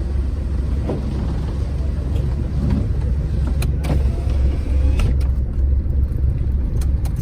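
Suzuki Cultus engine idling: a steady low rumble, with scattered light clicks and knocks over it.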